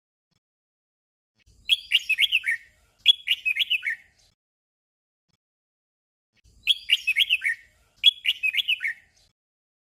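Red-whiskered bulbul singing its short 'double' song: a quick phrase of falling whistled notes sung twice back to back. The pair comes twice, about five seconds apart.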